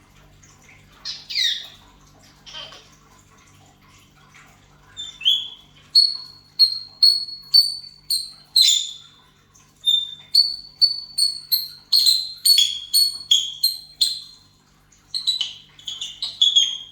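African grey parrot giving a long run of short, sharp high-pitched whistling chirps, about two or three a second, after a couple of single calls in the first seconds.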